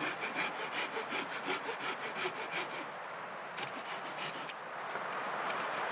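Hand saw cutting through wood in quick, rhythmic strokes. The strokes stop about three seconds in, then there are a few more before it gives way to a steady noise.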